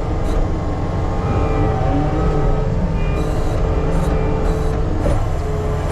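Diesel engine of a piece of earthmoving equipment running steadily: a deep, loud rumble with a constant pitched hum over it.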